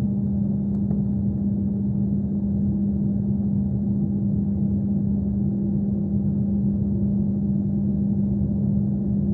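Steady airliner cabin hum heard from inside the cabin: a constant drone with one strong low tone over a rumble.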